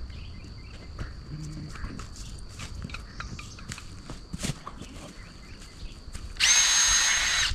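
A power drill runs in one short burst of about a second near the end, a steady high whine over a rushing noise. Before it, only scattered light clicks and knocks.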